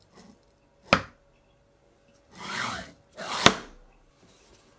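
Workshop handling sounds: a sharp knock about a second in, a short rough scrape a little later, then a second, louder knock.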